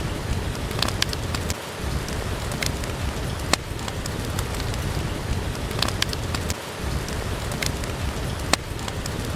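Steady rain falling, an even hiss over a low rumble, with a few sharp pops at irregular intervals from a crackling wood fire.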